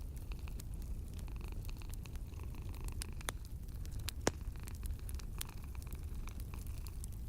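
Wood fire crackling, with scattered sharp pops (the sharpest about four seconds in), over a low, steady cat purr.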